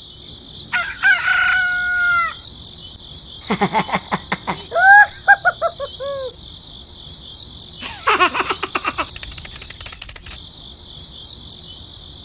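Chickens calling: a rooster crows about a second in, and a run of short clucking calls follows around five to six seconds in. A steady high insect buzz runs underneath, and there are bursts of rapid clicking or rattling around four and eight seconds in.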